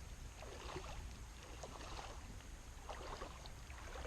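Shallow creek water splashing and sloshing in several irregular bursts, as around a wader's legs, over a steady low rumble.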